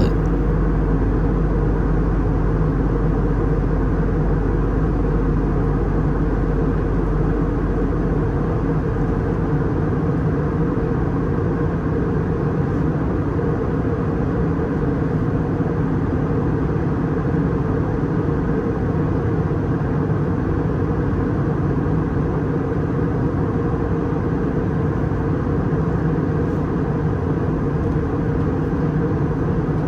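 Steady cabin noise inside an Airbus A320 in flight: a constant drone of engine and airflow noise that does not change.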